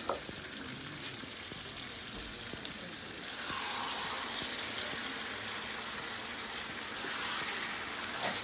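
Potato chunks frying in hot oil in a pan on a charcoal stove: a steady sizzle that gets louder about three and a half seconds in, as the potatoes go into the oil and are stirred with a wooden spoon.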